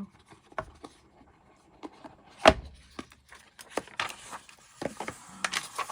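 Hands opening a notebook's packaging: scattered clicks, taps and rustles, with one sharp knock about two and a half seconds in.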